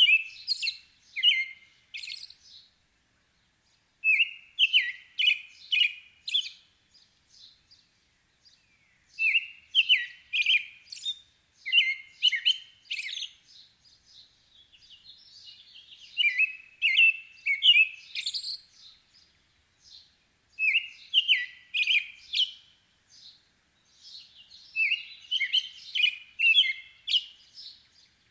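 Songbird singing: phrases of quick, high chirps, each lasting two to three seconds, repeated about every four seconds with short silent gaps between.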